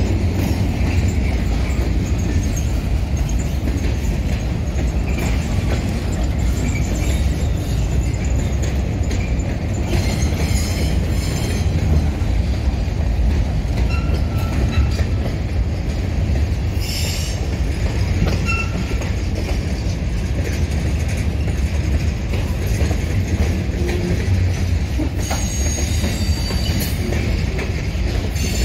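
Slow-rolling freight train passing close by: a steady deep rumble of cars rolling on the rails, with a few short high wheel squeals now and then.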